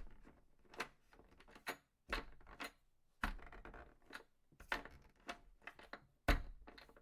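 A series of irregular sharp knocks and clicks, about a dozen, each dying away quickly.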